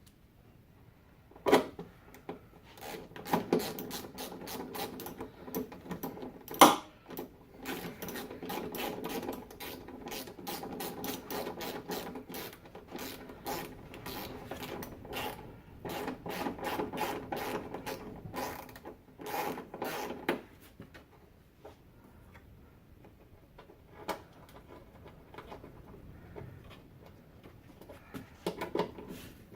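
Hand socket ratchet clicking in quick runs as 10mm bolts are run down into the plastic air intake box, with a few sharper knocks. The clicking thins out to occasional single clicks for roughly the last third.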